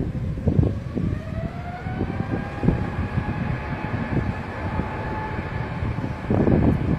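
Jet airliner engine whine, a pitched tone rising over the first couple of seconds and then holding steady, with gusts of wind buffeting the microphone.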